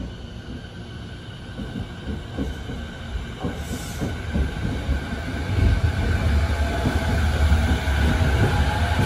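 JR 209 series electric commuter train rolling past, a steady low rumble with faint held tones and scattered clicks from the wheels, growing steadily louder as the cars go by.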